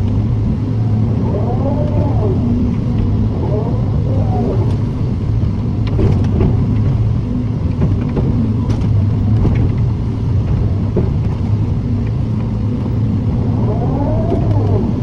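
Excavator diesel engine running steadily, with a few short whines that rise and fall and some sharp clanks around six and nine seconds in.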